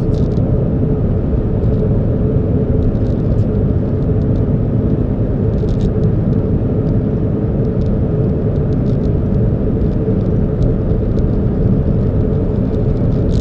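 Steady low rumble of a running car, with a constant hum and a few faint ticks.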